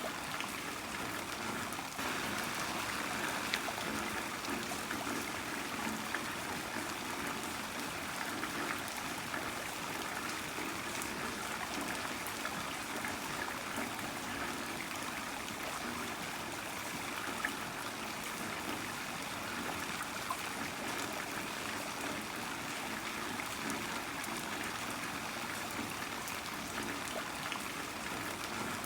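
Heavy rain falling steadily, an even rushing hiss with scattered drop ticks and running, trickling water.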